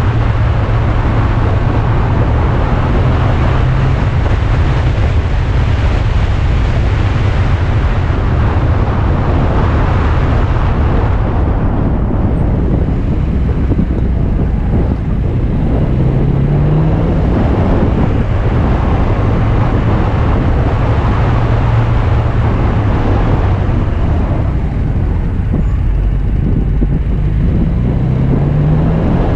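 Alfa Romeo Spider's engine running steadily on a downhill mountain drive, with wind and road noise over it. The engine pitch rises briefly around the middle and again near the end as the car accelerates.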